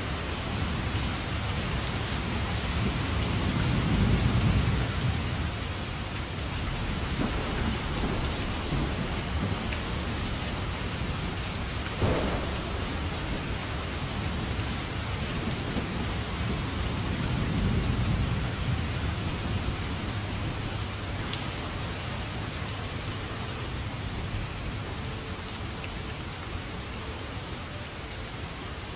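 Heavy rain falling steadily, with low rumbles of thunder swelling about four seconds in and again near eighteen seconds, and a short sharp crack about twelve seconds in.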